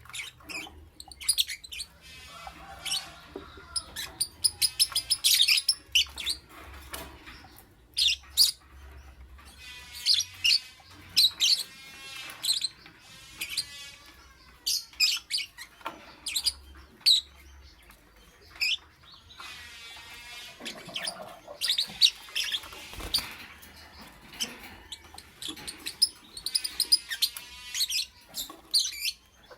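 Lovebirds chirping: many short, sharp high-pitched chirps and chattering calls, coming in clusters with brief pauses between.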